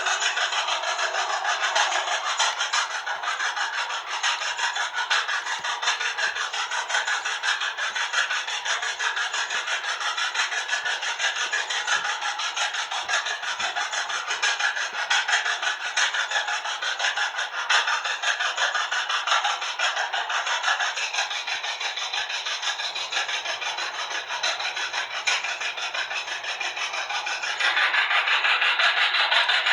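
Steady, raspy mechanical running noise from the John Deere Model G after its ignition is switched on, with no deep exhaust beat; it grows a little louder near the end.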